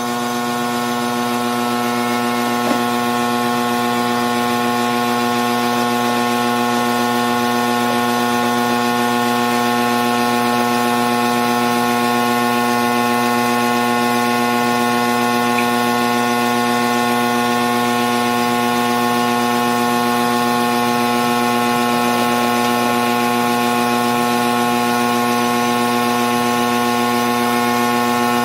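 A motor-driven machine running at a constant speed: a steady pitched hum that starts abruptly and holds without change.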